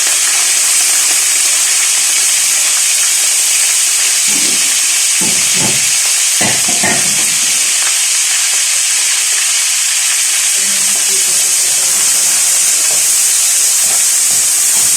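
Chicken pieces frying in a pan: a loud, steady sizzle as their water cooks off.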